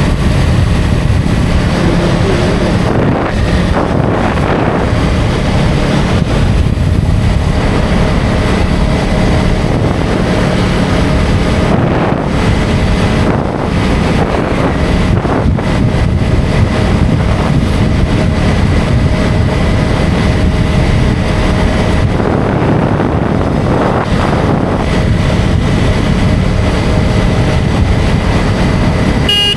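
KTM Duke 250 Gen3's single-cylinder engine running steadily at riding speed, mixed with heavy wind noise on the microphone.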